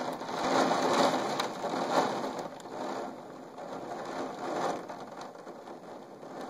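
Heavy rain falling in a steady hiss, louder over the first few seconds and easing a little toward the end.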